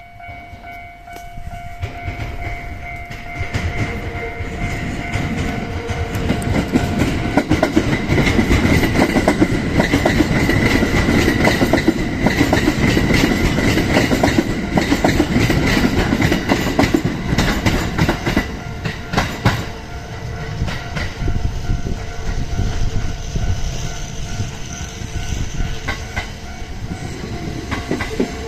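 Level crossing warning bell ringing steadily while a Kintetsu 8A series electric train passes, its wheels clattering rhythmically over the rail joints. The train builds up over the first several seconds, is loudest for roughly the middle stretch, then eases off as it moves away, with the bell still ringing.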